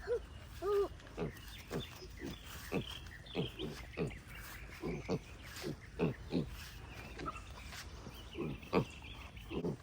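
Pigs grunting: a steady run of short, low grunts, about two a second.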